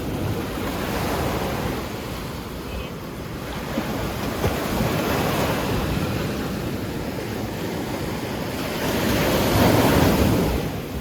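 Sea waves breaking and washing on the shore, the noise rising and falling in slow surges, the loudest near the end, with wind buffeting the microphone.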